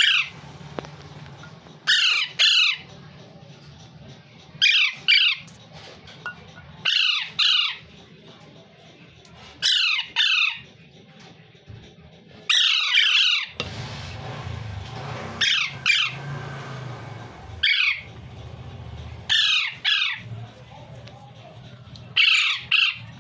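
Parrot squawking: loud, harsh calls that sweep down in pitch, mostly in pairs, repeating every two to three seconds.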